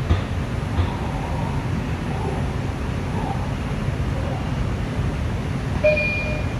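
Inside an R142 subway car running at speed: the steady low rumble of the wheels on the track, with two knocks in the first second and a brief high tone about six seconds in.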